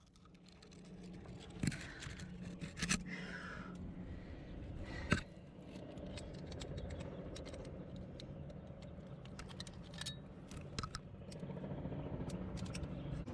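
Scattered metallic clicks and short scrapes of climbing gear and rock, with one sharper click about five seconds in, over a low steady rumble.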